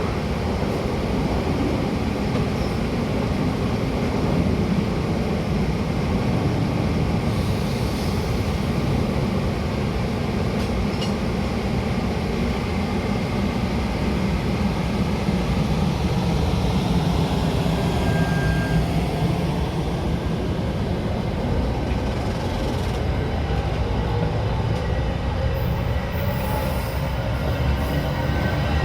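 Metra commuter train running on the rails with a steady rumble, and faint, shifting wheel squeals in the second half.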